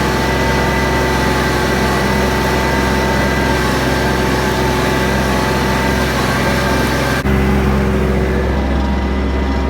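Heavy vehicle engine running steadily, with a steady whine above it. About seven seconds in the sound cuts abruptly to a deeper, slightly louder engine note.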